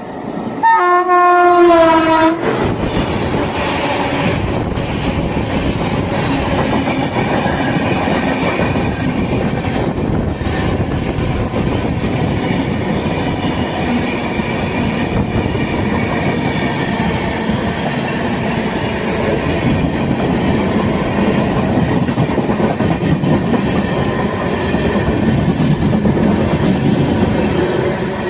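An Indian Railways locomotive sounds its horn once near the start, a single blast of about a second and a half. Then an express train runs past with a steady rumble of its wheels on the rails.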